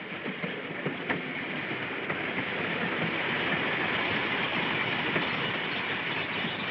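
A railway train's steady running noise, swelling over the first couple of seconds and then holding, with two sharp clicks about a second in.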